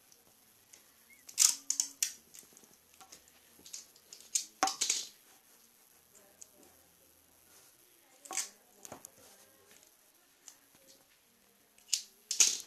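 Scattered short clicks and knocks, some in quick clusters, as of tools and parts being handled, with no motor running.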